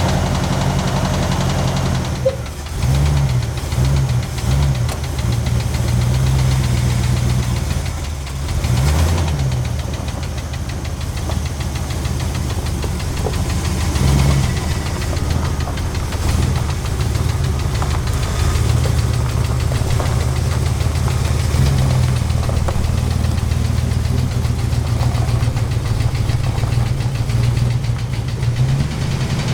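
A 1980 Ford F-350's 400 V8 runs steadily with a knock, its revs swelling a few times. The owner puts the knock down to zero oil pressure, likely from a plugged oil pickup tube.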